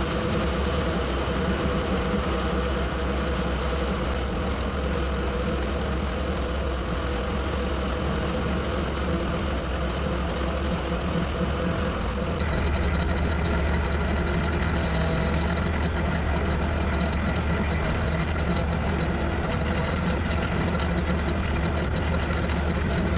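Tractor engine running steadily under load while pulling a bush hog rotary cutter. About halfway through the sound gets slightly louder and a thin high whine joins in.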